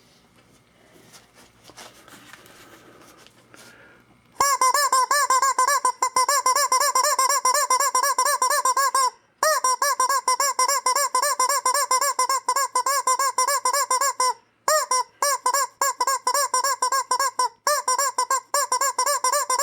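Rapid, evenly repeated squeaky bird-like chirps, loud and close, starting about four seconds in and stopping briefly three times. This is the bird sound being recorded for the app to identify.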